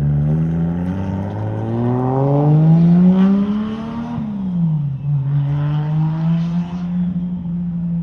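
Car engine revving up as it pulls away, its pitch rising steadily for about four seconds, then dropping sharply with a gear change and holding steady afterwards.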